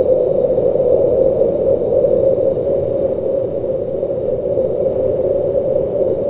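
Blizzard wind blowing steadily, a low, even rushing noise with no gusts or thunder claps.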